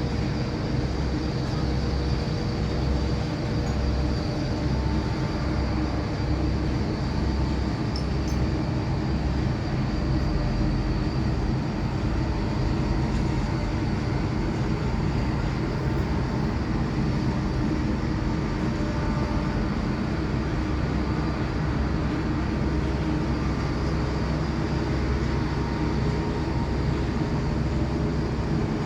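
Steady low mechanical rumble with a constant hum and a faint high whine, unchanging throughout.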